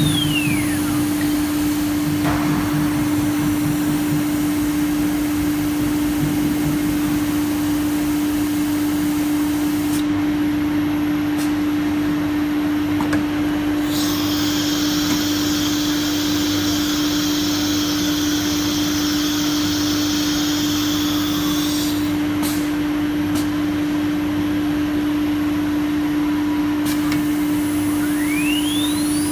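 CNC router running, a steady machine whine over a rushing, vacuum-like noise. About halfway through, a higher hiss joins for several seconds, then drops away. A short falling sweep comes at the start and a rising one near the end.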